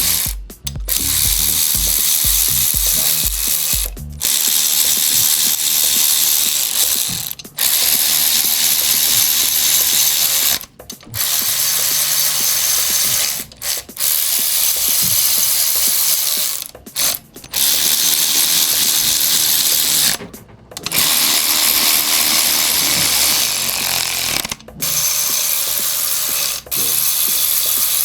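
Workshop ratchet wrench clicking over a steady hiss. It runs in spells of a few seconds broken by short, abrupt pauses.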